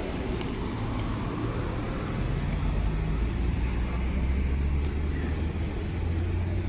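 Outdoor street noise: a steady low rumble of vehicle traffic under a general hiss of background noise.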